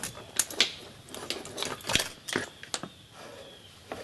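Irregular sharp clicks and knocks, about eight of them, from handling metal tools: the grease gun and bearing grease packer being worked at a wheel hub.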